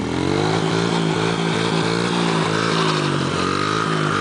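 Dirt bike engine running close by, revving up at the start and then holding a fairly steady speed, with a brief dip in revs about three seconds in.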